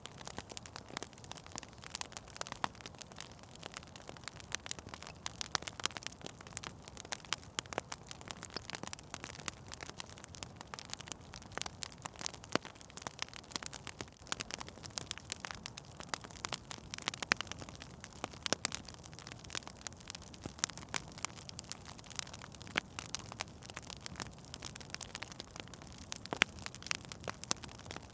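Fire in a fireplace crackling: many irregular sharp pops and snaps over a steady soft hiss.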